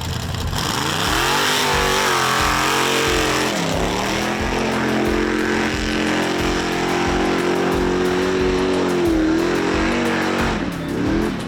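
Mega truck's engine revving up hard and holding high revs for several seconds, dipping and climbing again near the end. Background music with a steady beat runs underneath.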